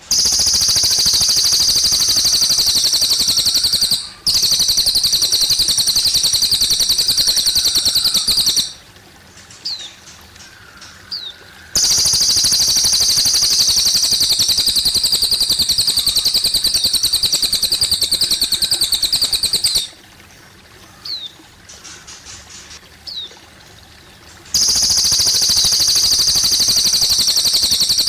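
Cililin bird singing long, rapid, high-pitched trills in bouts of several seconds, four times, each starting and stopping abruptly. Between the bouts, trickling water and a few short chirps are heard more quietly.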